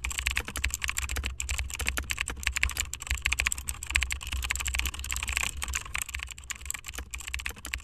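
Rapid, irregular clicking of computer keyboard typing, with a steady low hum underneath.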